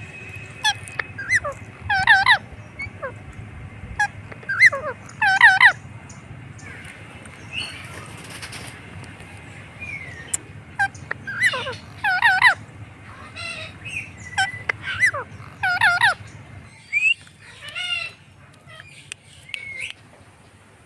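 Indian ringneck parrot giving loud, harsh squawking calls, in short runs of quick repeated notes with pauses between the runs.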